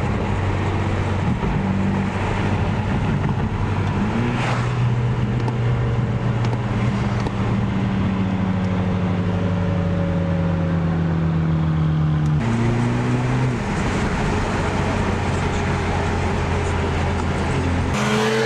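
BMW N20 turbocharged four-cylinder engine and road noise while driving: a steady low drone that climbs slowly in pitch as the car gathers speed, then changes abruptly about twelve seconds in before running steadily again.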